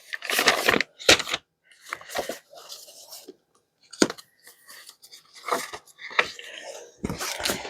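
Sheets of paper and cardstock rustling and crinkling as they are handled and shuffled, in irregular bursts.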